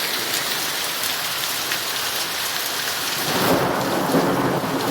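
Heavy rain falling with a steady hiss; a little past three seconds in, a roll of thunder rumbles in under it and carries on.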